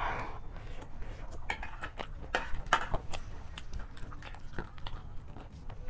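Mouthfuls of panipuri being chewed close to the microphone, with irregular crunches and wet clicks. There is also the light scrape of a metal spoon on a plate of chatpatey.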